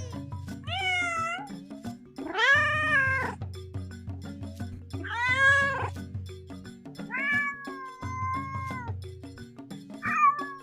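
Domestic cats meowing five times over background music. The fourth meow, about seven seconds in, is long and drawn out, and the last one near the end is short.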